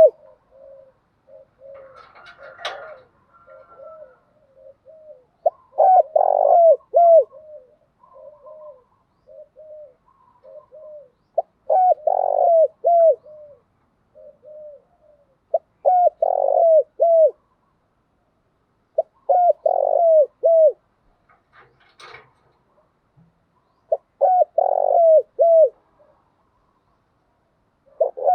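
Spotted dove cooing: phrases of several quick coos repeated every four to five seconds, with softer single coos in between. A brief noise cuts in about two seconds in and again near the end.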